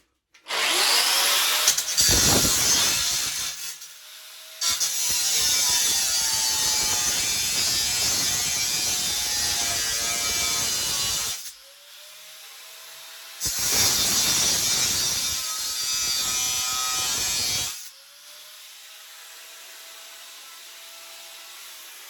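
Angle grinder with a diamond cutting disc cutting into the steel pit bike frame in three loud passes, running free with a steady whine between them. The whine drops near the end as the disc winds down.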